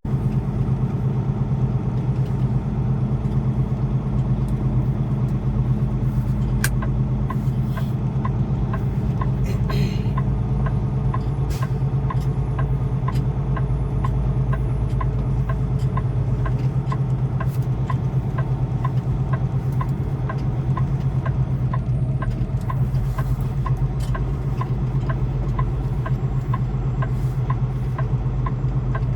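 Semi truck's diesel engine running steadily at low speed. From about halfway through, a regular light ticking comes in alongside it.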